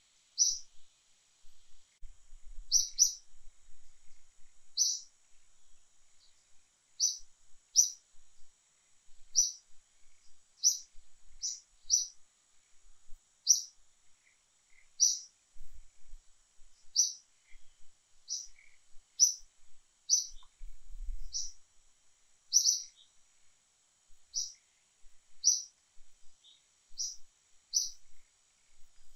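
A bird chirping: short high chirps repeated irregularly every second or two, over a faint steady high hiss.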